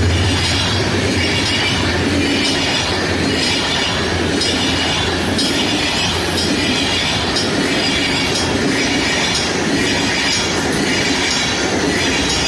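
Passenger coaches of a passing train rolling by, their wheels clattering over the rail joints about once a second, with some squeal. The diesel locomotive's low engine hum fades over the first few seconds.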